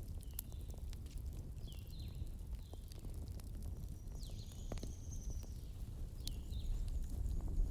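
Wood fire burning with a steady low rumble and scattered sharp crackles and pops. Several short high descending chirps and one longer high whistle sound over it.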